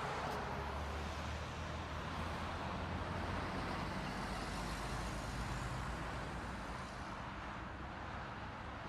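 Steady road and engine noise of a moving car, with a low engine hum under an even rush of tyre and wind noise.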